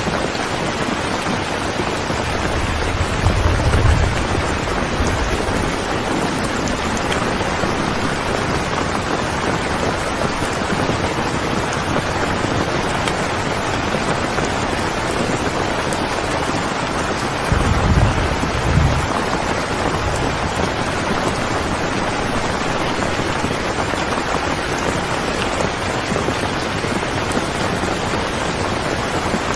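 Steady rain, with two low rumbles of thunder: one about three seconds in and a shorter one about eighteen seconds in.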